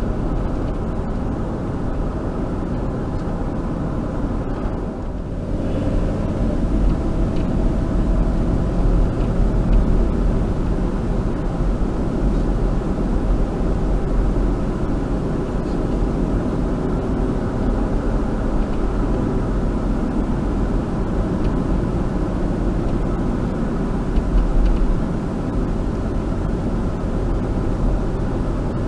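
Car driving along a road: steady engine and road noise.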